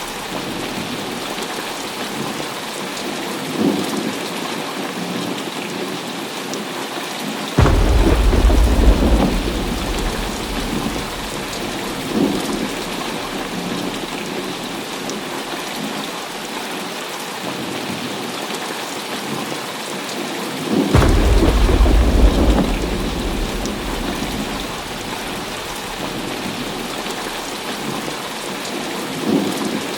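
Heavy rain falling steadily, with two loud thunderclaps, one about 8 seconds in and one about 21 seconds in. Each breaks suddenly and rumbles on for a few seconds.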